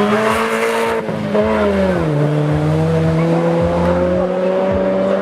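Rally car engine held at high revs, its pitch dropping about two seconds in and then holding steady.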